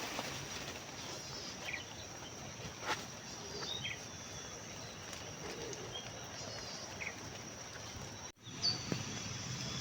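Quiet outdoor field ambience with a steady background hiss, and a few short, faint bird chirps scattered through it. The sound drops out for an instant near the end.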